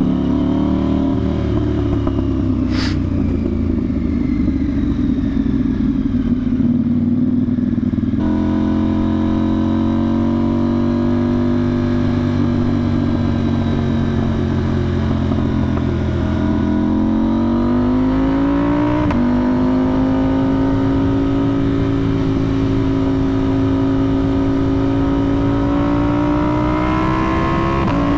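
2025 KTM 990 Duke's parallel-twin engine running through a budget Temu exhaust with the soundbox deleted, heard while riding. It holds a steady cruise, then revs up and drops at a gearshift about two-thirds through, and climbs gently again near the end. There is a single short click about three seconds in.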